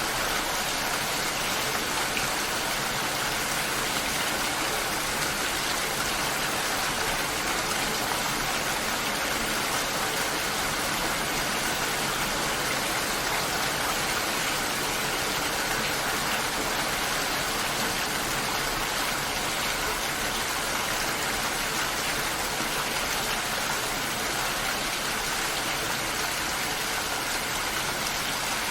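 Steady, even rainfall, a constant hiss of rain with no breaks or single loud drops standing out.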